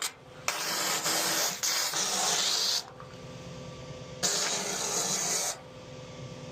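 Suction hose of a septic pump truck sucking sludge and air out of a septic tank, in two long bursts of loud hissing slurping, with the truck's vacuum pump humming steadily beneath.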